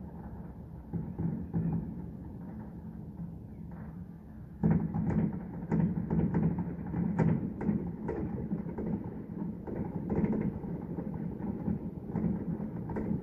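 Fireworks shells bursting in the distance: a low rumble with scattered thumps, then a dense run of booms from about four and a half seconds in.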